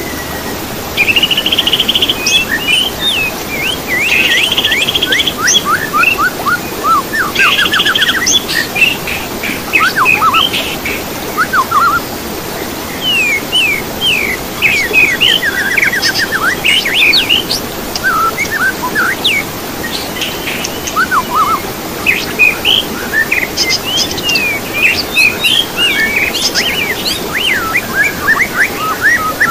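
Songbird song: a fast, varied run of whistles, chirps and rapid trills with brief pauses, over a steady low background hiss.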